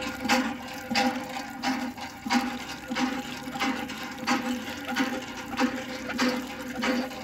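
Water gushing in rhythmic spurts, about two a second, from a homemade mini hand pump being worked, over a steady hum.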